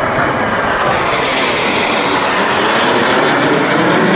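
Snowbirds' CT-114 Tutor jets flying past, a loud rushing jet noise that grows louder and brighter after about a second.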